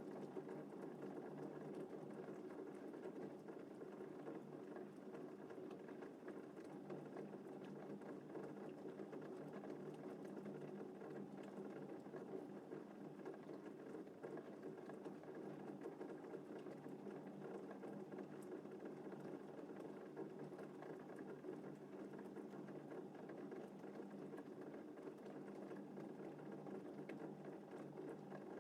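Gentle rain falling steadily, a faint, even patter with no thunder.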